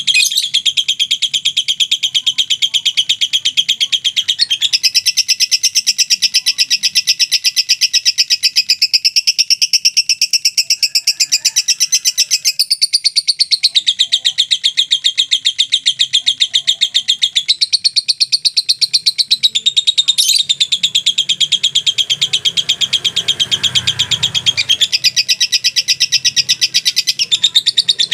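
Lovebird's long, unbroken 'ngekek' chatter: a fast, steady string of shrill chirps that shifts up or down in pitch every few seconds without a pause.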